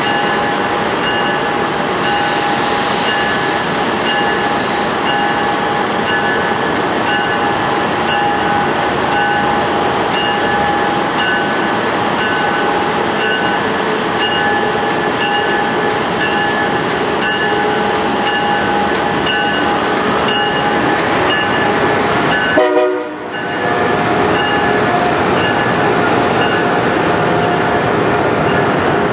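Electric passenger train moving through the station: a steady electrical whine with several held tones over running noise, and regular wheel clicks about twice a second. The sound briefly drops about 23 seconds in, then carries on at a slightly lower pitch.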